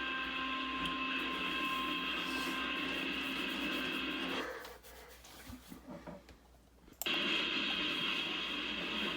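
A train passing, picked up by a trail camera's microphone as a steady mechanical running noise with several steady tones in it. The sound drops away sharply for a couple of seconds around the middle, then cuts back in.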